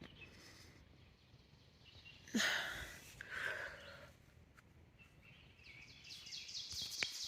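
Quiet woodland morning background with birds chirping in a quick repeating series near the end, and a short burst of noise about two seconds in.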